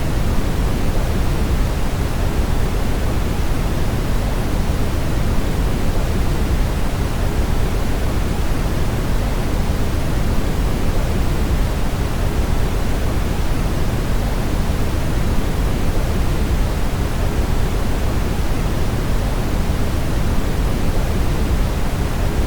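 Brown noise: a steady, unchanging hiss that is heaviest in the low end, like a deep rushing rumble.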